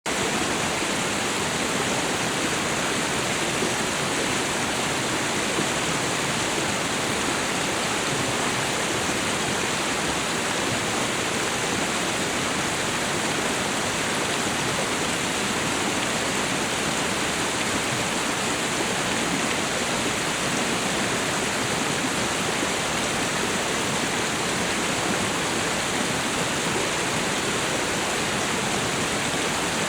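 Waterfall and river water rushing, a steady, even roar of falling water with no breaks or distinct events.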